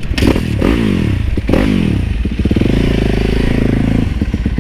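Dirt bike engine running close by, revved twice in the first second and a half with the pitch rising and falling, then running steadily.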